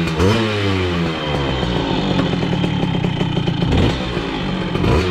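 Simson S51's 85cc two-stroke single-cylinder engine revved up once, the revs then falling away slowly over several seconds, with another short blip of throttle near the end.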